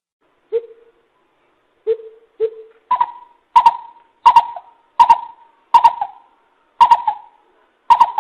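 Coucal (bìm bịp) calling: a series of short hoots, a few low ones at first, then louder, higher hoots at a steady pace of about one every 0.7 seconds from about three seconds in.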